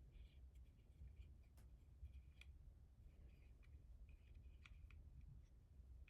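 Near silence with faint, scattered clicks and short scratchy rubbing: small parts and tools being handled.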